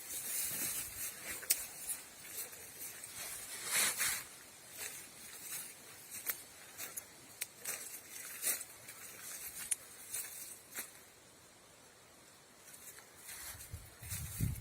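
Rustling and crackling of forest undergrowth: irregular brushing sounds and sharp snaps of leaves and twigs, going quieter for a couple of seconds near the end before a low rumble on the microphone comes in.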